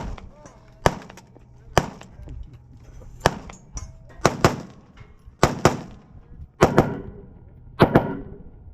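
Gunfire: about a dozen sharp shots, spaced roughly a second apart in the first half and then coming in quick pairs, each with a short echoing tail.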